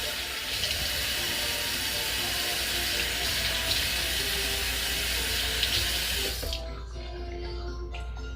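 Water running steadily from a tap, shut off abruptly about six and a half seconds in.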